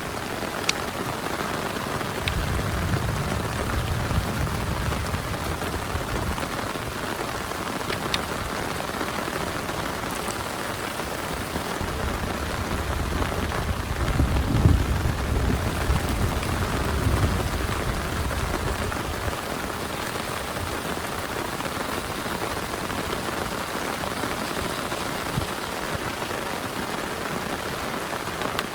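Heavy rain falling steadily, with low rolls of thunder about two seconds in and again around the middle, the loudest near halfway. A few sharp drips tick near the start.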